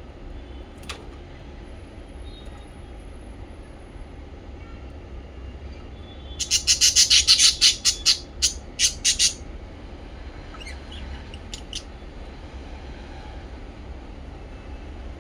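Small pet parrots chirping. A loud, rapid run of about a dozen sharp high calls comes about six seconds in, followed by a few fainter calls, over a steady low hum.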